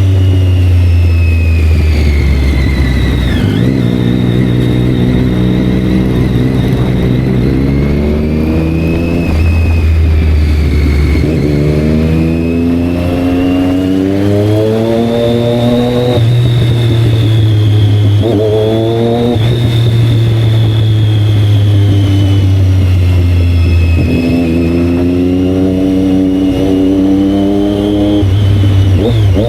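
Motorcycle engines running loud and revving, the pitch climbing for several seconds and then dropping again, over a steady low engine drone.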